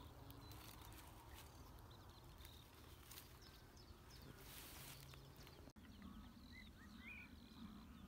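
Near-silent marsh ambience with a low rumble and a few faint, short bird chirps, more of them after a brief dropout about two thirds in.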